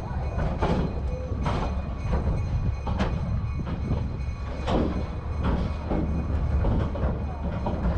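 Narrow-gauge passenger train car rolling along the track with a steady low rumble, its wheels clacking over the rail joints about once or twice a second at uneven spacing.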